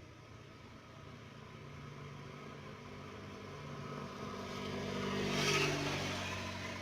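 Truck engine pulling up an incline, growing louder as it approaches, passing closest about five and a half seconds in, then fading as it moves away.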